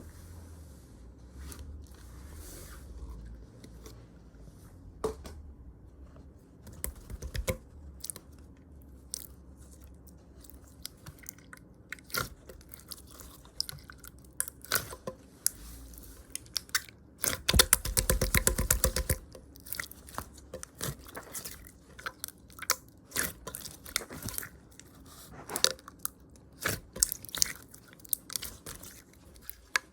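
Chewy lemon candy being chewed close to the microphone: a run of sticky, wet mouth clicks and smacks. A loud burst of rapid crackling comes a little past the middle and lasts about a second and a half.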